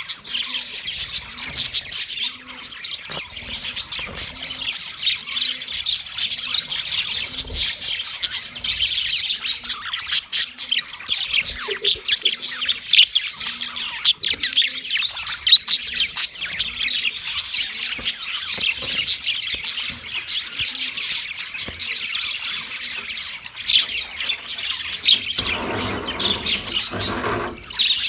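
Budgerigars chirping and chattering without pause, a dense stream of rapid high chirps. A faint low pulse repeats about every three-quarters of a second underneath, and a brief lower noise comes in near the end.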